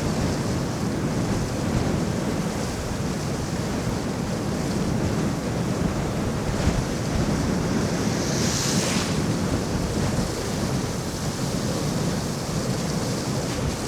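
Wind buffeting the microphone of an electric scooter ridden at about 29 mph: a steady, rumbling rush of noise, with a brief hiss swelling about eight seconds in.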